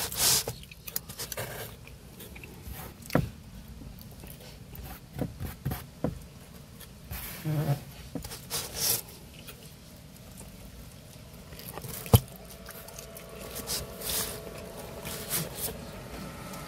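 A person eating pepperoni pizza close to the microphone: bites and chewing in short irregular bursts, mixed with hands handling slices on the corrugated cardboard liner of the pizza box. One sharp click about twelve seconds in.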